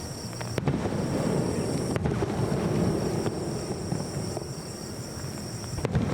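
Aerial fireworks shells bursting: three sharp bangs, about half a second in, at two seconds and near the end, over a continuous low rumble of further launches and bursts.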